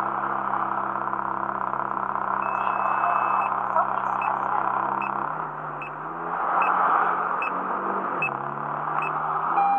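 Ferrari F430's V8 engine idling with a steady note; about five seconds in its pitch drops and wavers. A short electronic beep repeats about every 0.6 s from around four seconds in.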